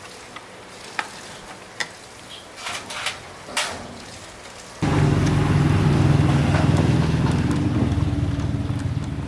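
Light clicks and taps, then about halfway through a four-stroke motorbike engine comes in suddenly and runs steadily, easing off slightly near the end.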